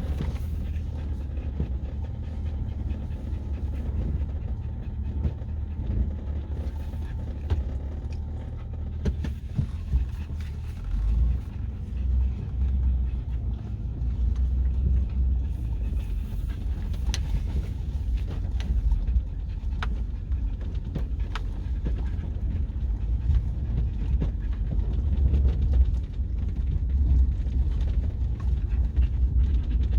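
A dog panting steadily inside a truck cab, over the low, steady rumble of the truck driving.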